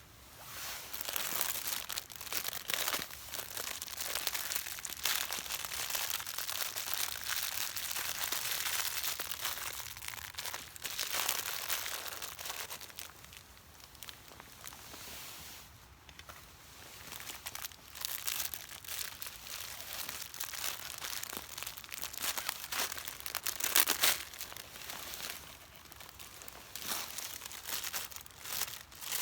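Crinkling and rustling handling noise in irregular spells, broken by sharp crackles, the loudest crackle near the end.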